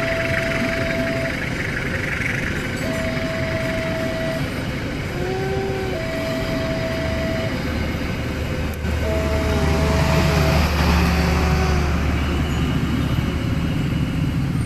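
A train rumbling past, its deep rumble growing louder from about eight seconds in, while a steady warning tone sounds in long beeps about every three seconds.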